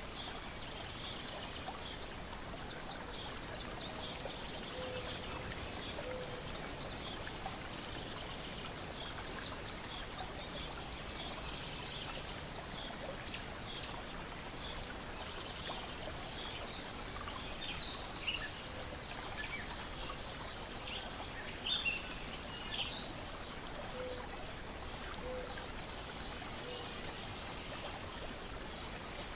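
Water lapping and splashing in a steady wash, with small birds chirping and singing throughout. A few short sharp clicks stand out in the second half.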